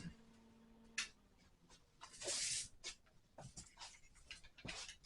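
Handling of a paper template: a brief papery rustle and scratch a little after two seconds, with a few light clicks and taps. A faint steady hum stops with a click about a second in.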